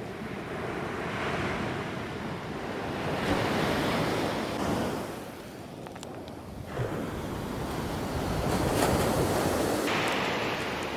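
Ocean surf breaking and washing up the beach, rising and falling in three slow surges.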